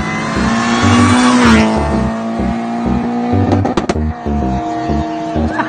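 A car driven hard on the road, its engine note climbing as it approaches and then dropping in pitch as it passes about a second and a half in. A few sharp cracks follow near the middle, and the engine goes on at a steadier note as it heads away.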